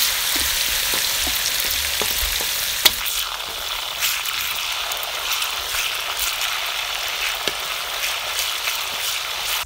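Bitter melon leaves deep-frying in hot oil in a metal wok: a steady sizzle, with a metal spatula clicking and scraping against the wok as the leaves are stirred, one knock louder about three seconds in.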